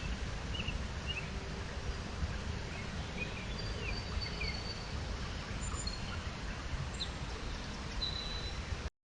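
Outdoor ambience picked up by a trail camera's microphone: a steady low rumble of background noise with birds calling at a distance, short high chirps scattered throughout and a few longer whistled notes.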